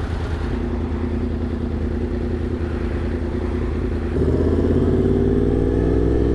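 Motorcycle engine running at idle, then about four seconds in it gets louder and its pitch slowly climbs as the bike is throttled up to pull away.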